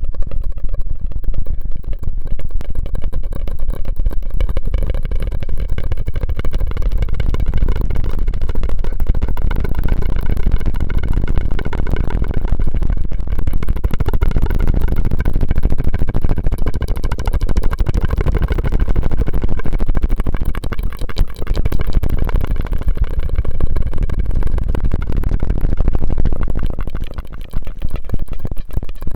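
Close-miked ASMR mouth sounds: a dense, continuous run of small wet clicks and smacks over a low rumble.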